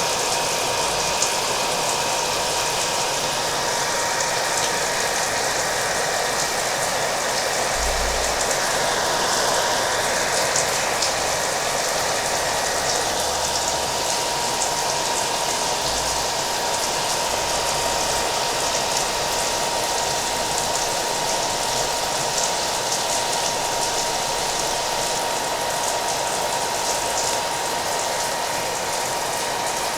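A hair dryer running steadily, with a thin constant whine from its motor, mixed with the steady hiss of rain.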